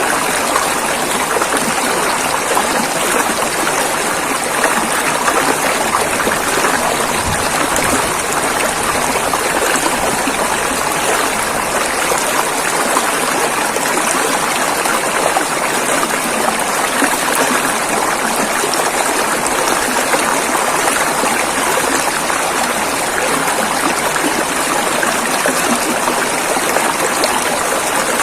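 River water rushing and gurgling over rocks, a steady even noise.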